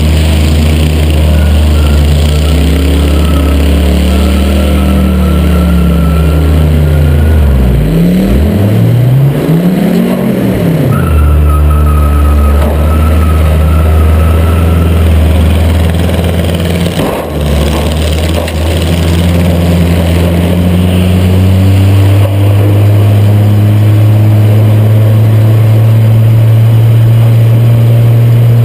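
Six-cylinder race car engine running hard under load, heard from the hood. The revs drop and climb back twice about eight to ten seconds in, dip briefly again later, then settle a little higher near the end, with a faint high whine coming and going above the engine.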